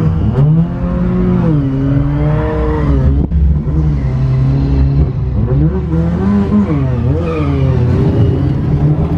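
Car engine heard from inside the cabin while driving, revving up and easing off several times. The pitch drops sharply about three seconds in and climbs again.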